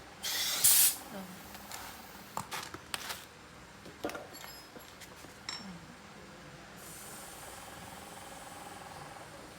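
Compressed air hissing out in two short, loud blasts, followed by scattered light metal clicks and clinks of tools, one ringing briefly, and a faint steady hiss in the last few seconds.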